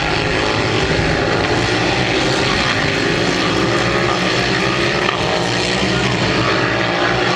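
Racing motorcycle engines running hard at high revs, several engine notes overlapping and shifting slightly in pitch.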